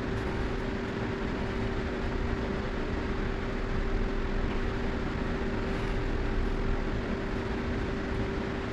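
Steady mechanical hum with a constant mid-pitched tone over a low rumble and hiss, unchanging throughout.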